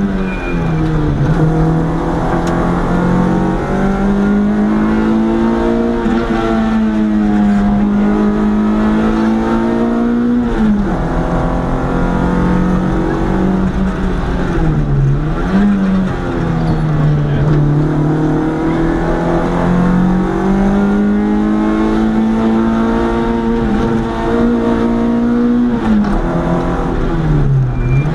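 Competition rally car engine heard from inside the cabin, held at high revs under hard acceleration up a hillclimb. Its pitch dips sharply and climbs back several times: near the start, about 11 and 15 seconds in, and near the end.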